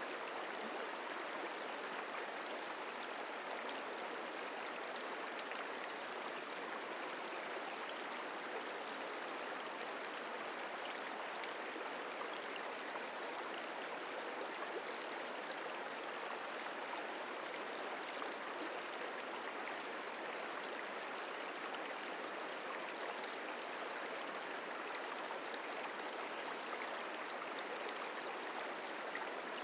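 The Merced River flowing: a steady rush of running water, even and unbroken.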